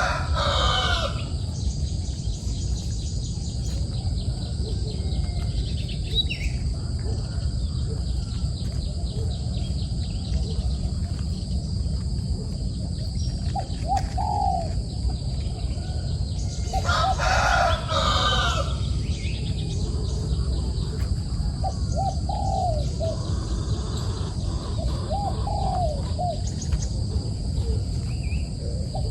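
A rooster crowing twice, once right at the start and again about 17 s in, with short low calls between the crows.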